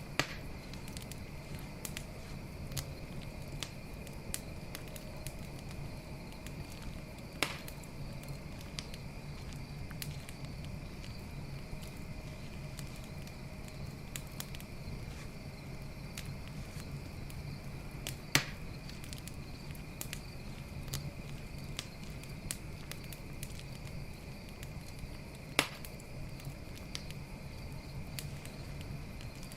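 Wood campfire crackling with small ticks and four sharp, loud pops spread through, over a steady high chirring of night insects.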